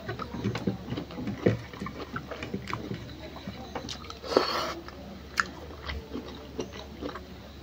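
Close-up mouth sounds of a person eating smoked pork with his fingers: chewing and lip smacks in many small clicks, with a short, louder slurp about four and a half seconds in as fingers go to the mouth.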